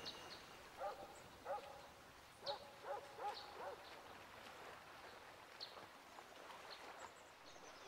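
Faint outdoor ambience with six short calls from an animal between about one and four seconds in, the last four in quick succession, and a few brief high chirps scattered through.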